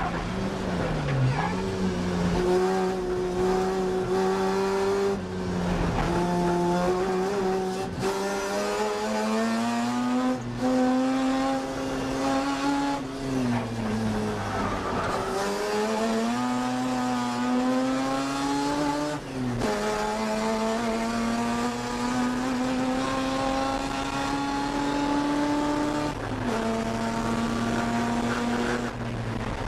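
A 1982 Mazda RX-7's two-rotor rotary engine at racing pace, heard from inside the cabin. Its pitch climbs under acceleration and drops sharply at each shift or lift, several times over, with one longer fall in pitch about 13 seconds in.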